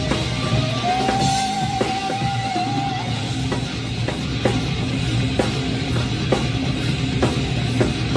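Drum kit played along to a hard rock recording with electric guitar; a high guitar note is held for about two seconds near the start, and the snare cracks land a little under a second apart.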